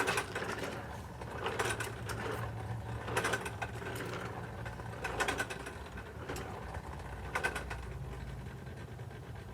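Irregular light clicks and rustles of Cheerios and string being handled as cereal rings are threaded, over a steady low hum.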